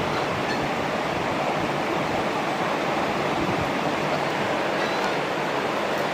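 Steady, even rushing noise, like a fan or running water, with no distinct events.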